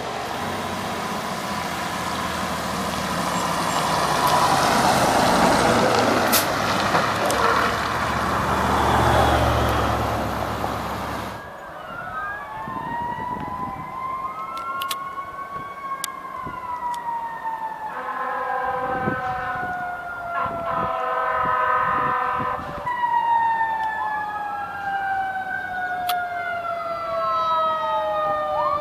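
A fire engine's diesel engine and tyres pass loudly. After a cut, several sirens wail, sweeping up and down over one another, with a horn sounding in short blasts about two-thirds of the way in and a long, slowly falling siren tone near the end.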